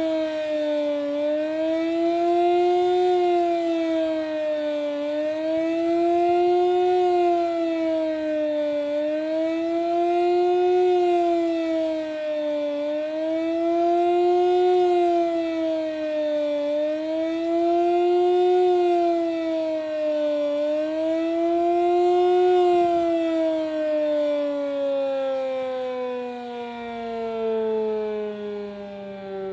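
Sterling electromechanical outdoor warning siren sounding a loud wail, its pitch rising and falling about every four seconds. About three-quarters of the way through it stops cycling and winds down, its pitch falling steadily.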